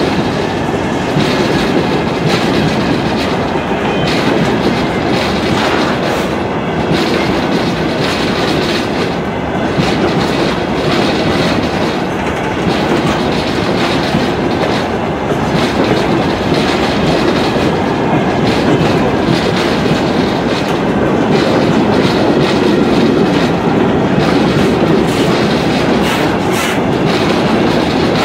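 Wagons of a freight train rolling past at close range: a steady rumble of the wheels, with clicks and clacks as the bogies pass over the rail joints.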